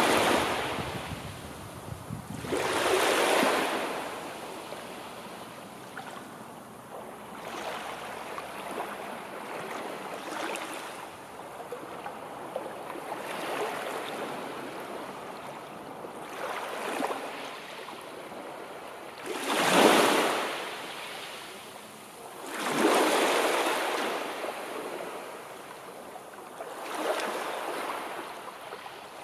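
Sea waves washing in and breaking, one surge of hissing water every few seconds, the biggest ones right at the start, a few seconds in, and twice about two-thirds of the way through.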